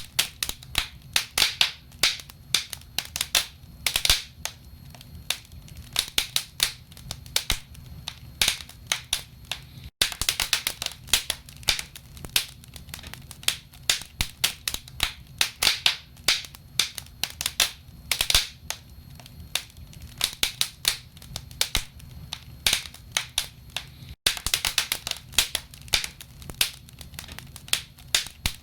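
Wood fire crackling in a fireplace: burning logs give off many irregular sharp pops and snaps over a low steady rumble. The sound cuts out for an instant twice.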